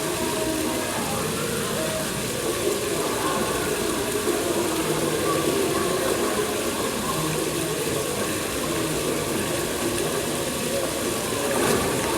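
Steady splash of a falling waterfall, with indistinct voices of people talking under it.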